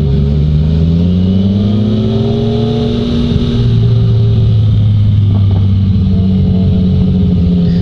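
Yamaha MT-09's three-cylinder engine accelerating, its pitch rising for about three seconds, then dropping sharply with an upshift and pulling on steadily, over wind noise from riding.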